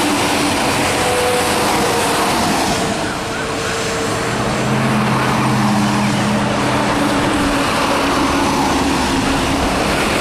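Highway traffic passing: a steady rush of road noise, with a vehicle's engine hum standing out from about four to seven seconds in.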